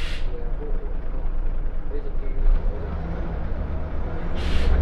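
Scania L94UB single-decker bus engine running, heard from inside the bus as a steady low rumble that grows louder near the end. Two short hisses of compressed air cut through it, one at the start and one near the end.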